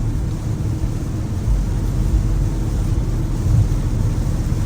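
Steady road noise of a BMW M5 Competition at highway speed in heavy rain: a low drone from tyres and drivetrain under a hiss of rain and water spray on the wet road.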